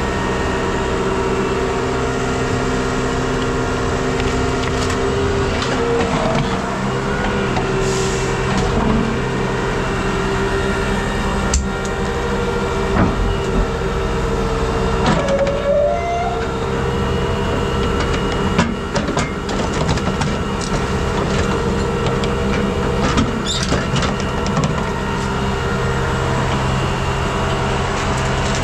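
A heavy machine's engine running steadily, with scattered clanks and scraping knocks, a handful in the second half.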